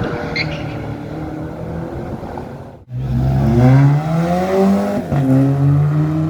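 A car engine running steadily, then, after a sudden cut about three seconds in, a car accelerating hard with its engine note rising and dropping back at two gear changes.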